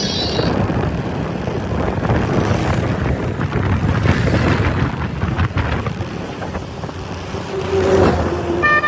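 Motorcycle riding along a road with wind rushing over the microphone, a steady rumble of engine and road noise. A vehicle horn sounds near the end.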